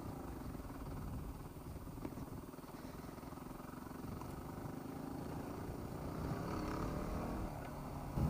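Yamaha WR250R's single-cylinder four-stroke engine running as the dual-sport bike rides along, its note climbing in the second half as the rider gets on the throttle.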